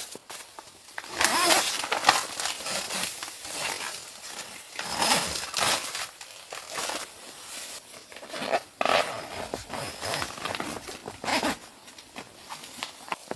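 Irregular rustling and crunching, with several louder bursts scattered through.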